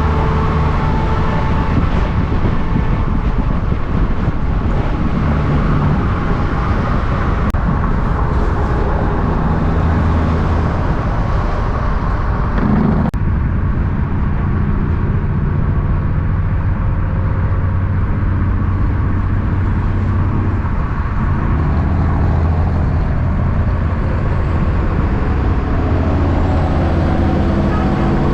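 Diesel semi-truck engines running as trucks pass along the road, with steady low engine tones that step up and down in pitch over continuous road noise.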